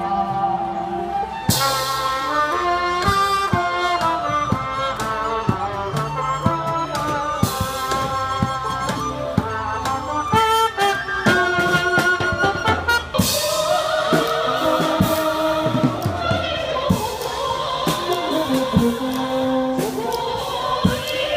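Live band music with a singer; drum strokes run through it. The music changes abruptly twice, and in the last part a voice holds long notes with a wide vibrato.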